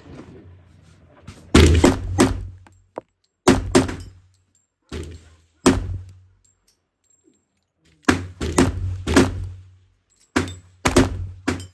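Shots from a .45 1911 pistol fired fast in quick strings of two to five, with short pauses between the strings.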